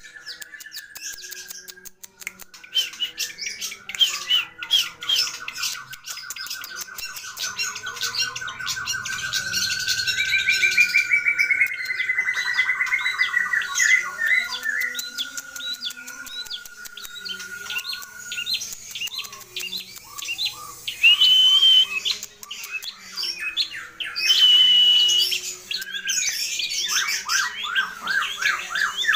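Long-tailed shrike (cendet) singing a fast, varied song of harsh chatter, rapid trills and whistles strung together from mimicked calls of other birds. A long buzzing trill holds for many seconds, and two clear, held whistles come about two-thirds of the way in.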